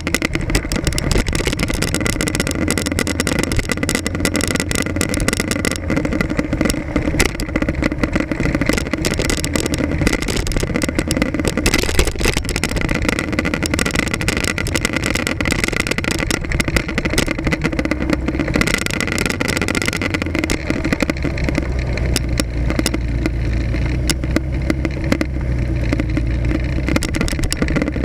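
Motorcycle engine running while riding in traffic, picked up by a camera mounted on the front of the bike, with many sharp rattling clicks throughout. The low engine note grows stronger about three quarters of the way through.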